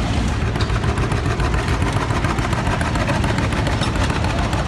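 A heavy engine running steadily and loudly, with a deep, even pulse.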